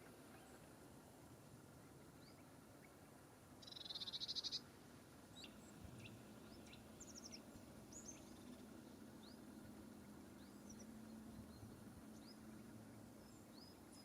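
Small woodland birds calling faintly with short high chirps scattered throughout, and one louder, rapid buzzing trill about four seconds in lasting about a second.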